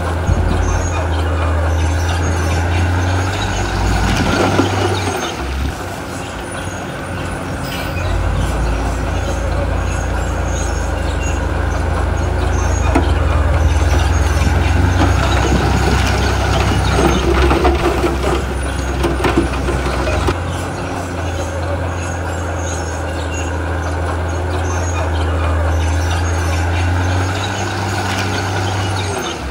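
Heavy diesel earthmoving machinery running: the engines of a bulldozer and dump trucks give a loud, low drone that rises and falls in level several times, with a few sharp knocks.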